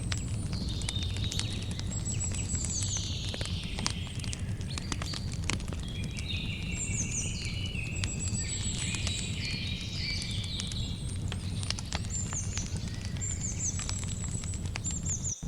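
Campfire crackling with frequent sharp pops over a steady low rumble, while birds chirp and call in short repeated phrases.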